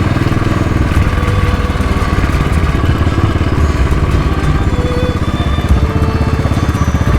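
Motorcycle engine running at steady low revs on a gentle downhill, a continuous rapid train of exhaust pulses with no change in speed.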